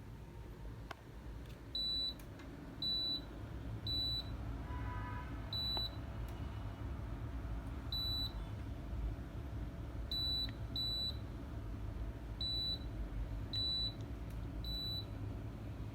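Reetech mini split air conditioner's indoor unit beeping as it takes remote-control commands: about ten short, high single beeps at uneven intervals, over a low steady hum.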